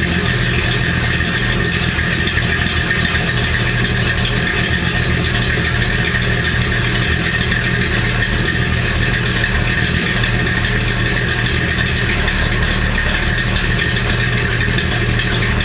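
1968 Oldsmobile Toronado's V8 engine idling steadily, heard at the exhaust.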